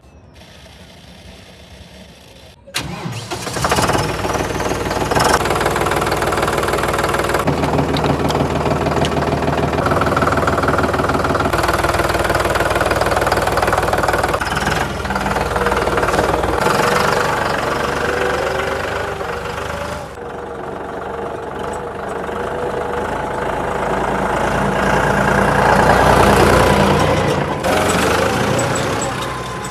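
Heavy diesel engine running loud, its revs rising and falling under load, coming in suddenly about three seconds in after a quieter start, with several abrupt jumps in the sound.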